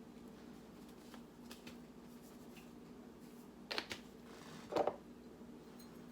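Quiet kitchen handling sounds while raw chicken is being seasoned: two short rustling scrapes about four and five seconds in, with a few faint ticks, over a steady low hum.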